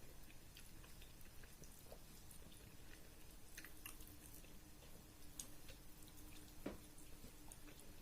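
Faint, wet close-up chewing of a rice-and-curry meal, with scattered small mouth clicks and one sharper click about two-thirds of the way in. A faint steady hum comes in a couple of seconds in.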